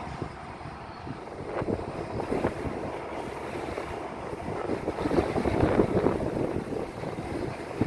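Thunderstorm wind and rain on the microphone: a gusting rush with no steady tone, growing louder about five seconds in.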